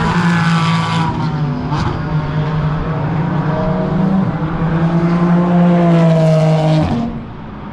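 Race car engine running at a high, nearly steady pitch, with a slight dip about four seconds in. The engine sound drops away about seven seconds in.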